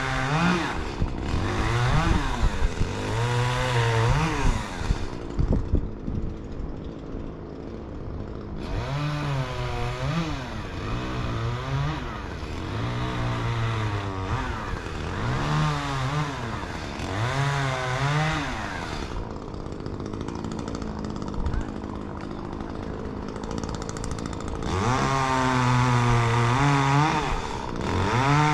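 Chainsaw running and being throttled up and down over and over, its pitch rising and falling every second or two. It has two quieter stretches in between, and runs steadily at high revs near the end.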